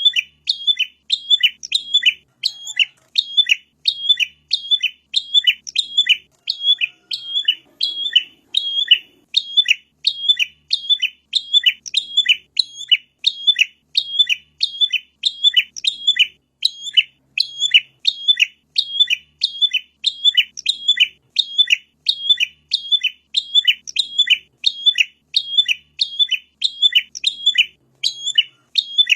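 Prinia (prenjak) calling: a sharp, high chirp that drops in pitch, repeated evenly and rapidly a few times a second without a break.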